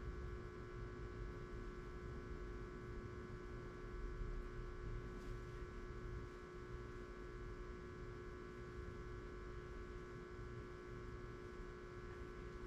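Steady hum in a quiet room: one constant tone with fainter higher tones over a low rumble, unchanging throughout.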